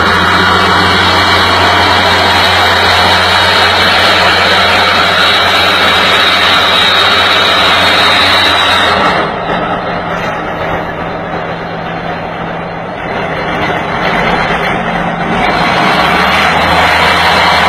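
Heavy machinery engine running loud and steady with a deep hum. About nine seconds in the sound changes abruptly to a thinner, quieter noise, and the deep hum comes back near the end.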